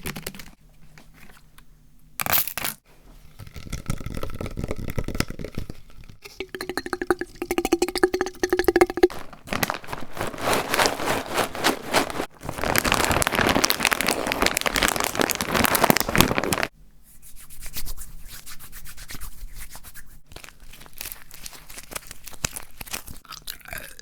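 A run of different close-miked ASMR trigger sounds made one after another by hand, changing every few seconds: dense runs of small clicks and rustling noise, a stretch with a steady tone in it, a loud noisy passage in the middle, then quieter scattered clicks.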